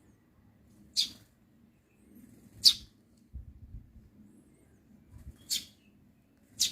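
Eurasian tree sparrow giving four short, sharp chirps a second or two apart, with a few soft low thumps between them.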